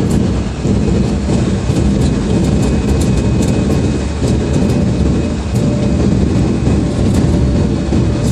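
Jet airliner cabin noise in flight through a sandstorm: a loud, steady low rumble with many short rattles and clicks scattered through it.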